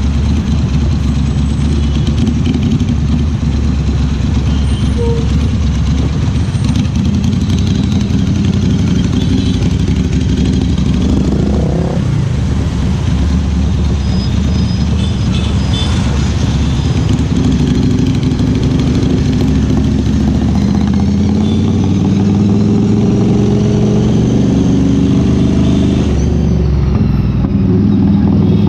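Ducati Scrambler Cafe Racer's air-cooled L-twin engine running on the move, steady throughout, with a brief rise in pitch about eleven seconds in.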